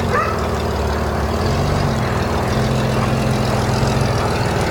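Ford Ranger pickup's 2.8 V6 engine running steadily at low revs while hitched to a heavy fifth-wheel trailer.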